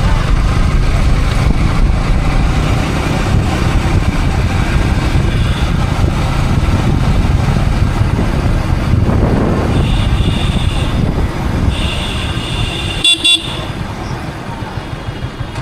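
Riding noise from a Yamaha R15 V3 motorcycle picked up by a helmet camera: a steady low rumble of wind and engine. A vehicle horn sounds twice in the second half, the second time longer and briefly loud.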